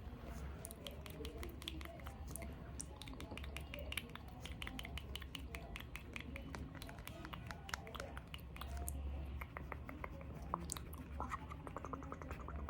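Close-up ASMR sounds of small objects being handled: a dense, continuous run of quick clicks, taps and crackles.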